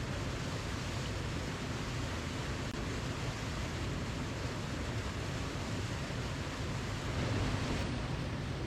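Waterfall rushing steadily, an even noise without pauses that swells slightly near the end.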